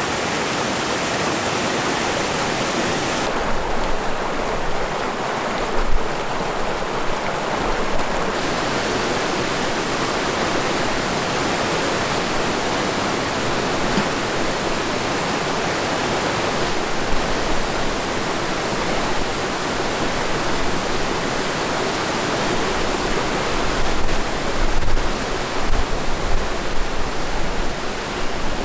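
River water rushing steadily. Near the end, gusts of wind buffet the microphone with low rumbles.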